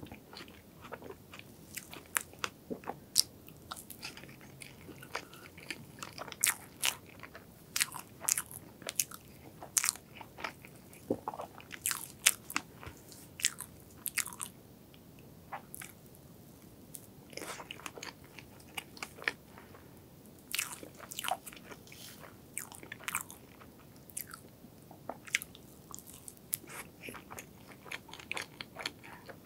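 Close-miked eating of a strawberry crepe cake with cream: many irregular, sharp, wet chewing clicks and mouth smacks.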